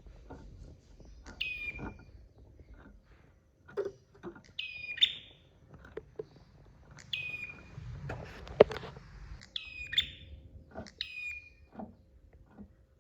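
Prinia (prenjak) calling: about five sharp, high chirps, each falling quickly in pitch and ending in a short level tail, spaced a couple of seconds apart. Scattered clicks and knocks come between them, the loudest a single sharp crack about two-thirds of the way in.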